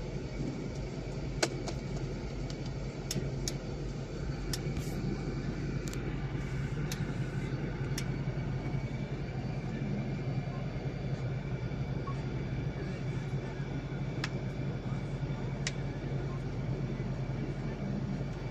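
Steady low hum of a 2014 Jeep Grand Cherokee idling, heard from inside the cabin, with a few faint sharp ticks scattered through it.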